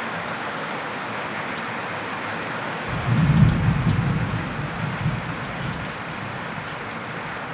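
Steady rain falling, with a roll of thunder that rumbles in about three seconds in, peaks briefly and dies away over the next few seconds.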